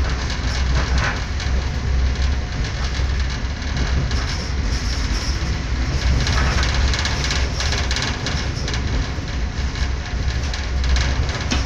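Steady low rumble of a moving passenger train heard from inside the carriage: wheels running on the rails with an even hiss over it.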